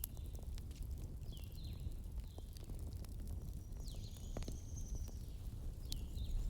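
Fire crackling, with a steady low rumble and scattered sharp pops. Short high tones that dip in pitch come through several times, and one longer steady high tone comes about two-thirds of the way in.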